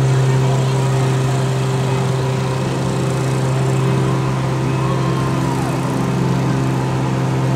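A small engine running steadily, a constant low hum.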